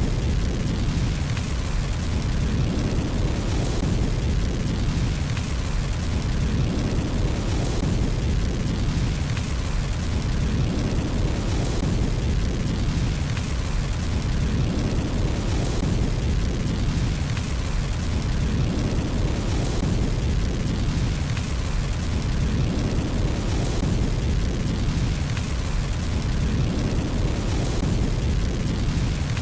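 Fire burning in a fireplace: dense crackling over a steady low rumble, with a high hiss that swells about every two seconds.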